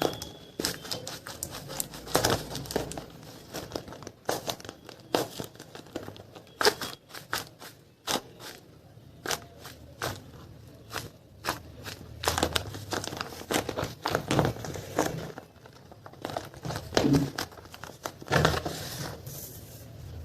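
Plastic blind-bag packaging crinkling and crackling in the hands as it is opened, in irregular sharp crackles throughout.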